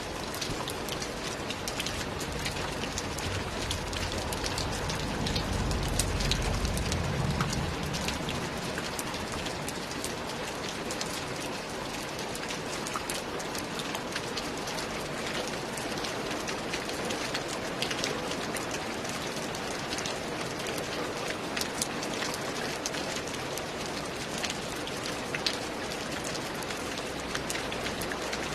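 Steady rain falling on a roof, with many sharp drop ticks over an even hiss. A low rumble swells and fades about five to eight seconds in.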